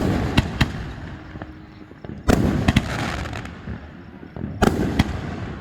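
Aerial fireworks bursting overhead in three clusters about two seconds apart, each cluster two or three sharp bangs. Each cluster is followed by a rumbling echo that dies away.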